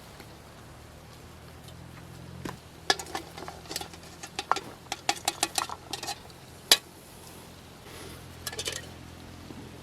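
Dishes and utensils being handled: a quick run of clinks and knocks over a few seconds, the sharpest one about two-thirds of the way through, then a few softer clinks near the end.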